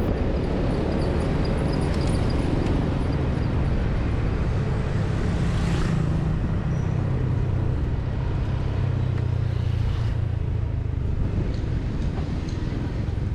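Steady low rumble of a moving motor vehicle: engine and road noise.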